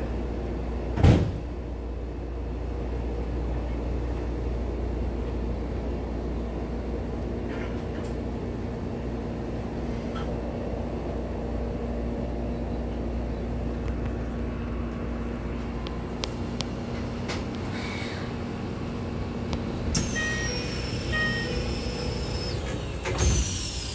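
Keisei 3000 series electric train heard from inside a car while running: a steady rumble of wheels on rail with a low electrical hum, and one loud thump about a second in. Near the end a high inverter whine glides down in pitch, typical of the train slowing, and there is another thump.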